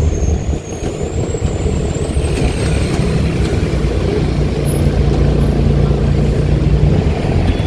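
Mercedes-Benz OH-1318 bus's diesel engine on an open, free-flowing exhaust, pulling under load and growing louder. It settles into a steady drone in the second half.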